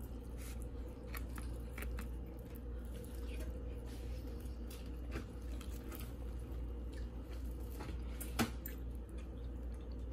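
A person chewing fried food close to the microphone, with many small wet mouth clicks over a steady low hum. A single sharp tap sounds about eight seconds in.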